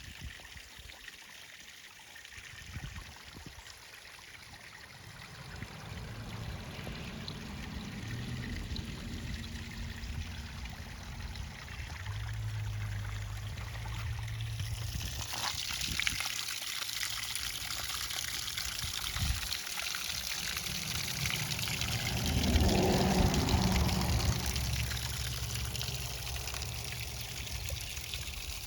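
Water pouring and trickling down a small homemade concrete waterfall, growing louder and brighter about halfway through. A low rumble runs underneath and swells briefly near the end.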